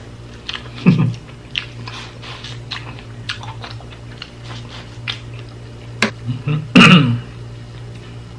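Close-up chewing and biting of corn on the cob (regular corn with butter and paprika): a run of short wet mouth clicks and smacks, with louder mouth sounds about a second in and again around seven seconds.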